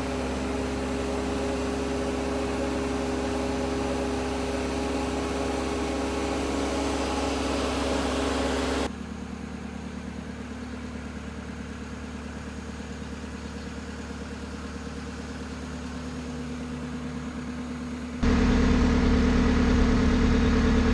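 An engine running steadily at idle with a low hum. It drops suddenly in level about nine seconds in and comes back up just before the end.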